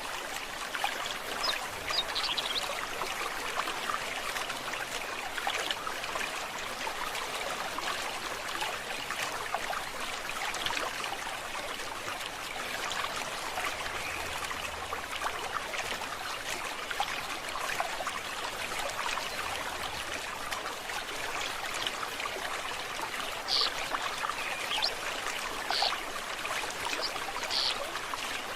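Forest stream babbling and trickling steadily over stones. A few short high bird chirps come about two seconds in and again several times near the end.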